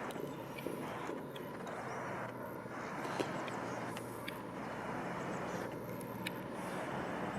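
Steady distant traffic rumble with faint scattered bird chirps, no train passing close by.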